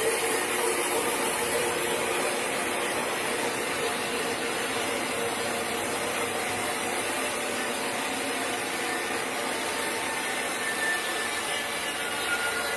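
Sawmill saw cutting through a large log, a steady, even noise with no break.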